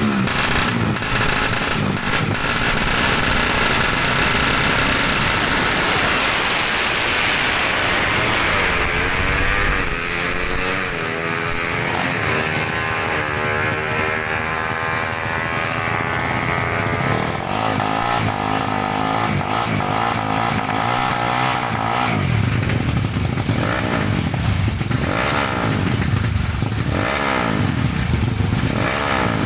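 Two-stroke 150cc Kawasaki Ninja racing motorcycles at full race pace, engines revving up and down through the gears, several at once. Over the last several seconds bikes sweep past one after another.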